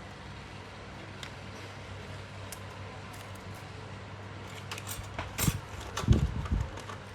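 Small metal clicks and taps of clock parts being handled at the bench, with a cluster of louder knocks about five to six and a half seconds in, over a steady low hum.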